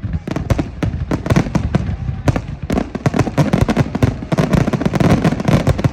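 Fireworks salute going off: a dense run of sharp bangs and crackles, many a second, overlapping over a low rumble.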